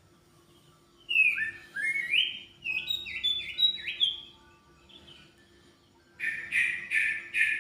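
A songbird of the kind called sirtu in Indonesia, singing in full voice (gacor). A run of rising and stepped whistled notes starts about a second in, and after a pause a quick series of short, loud repeated notes comes near the end.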